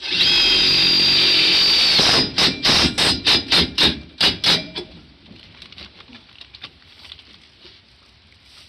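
A power drill runs steadily with a high whine for about two seconds while tight-frame brackets for a metal carport roof are fastened. It is followed by about ten quick sharp strikes, like hammer blows, over the next three seconds, then fainter scattered work noises.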